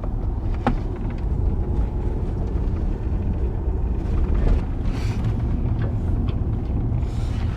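A steady low rumble, with a sharp click less than a second in and brief hissy swells around five and seven seconds.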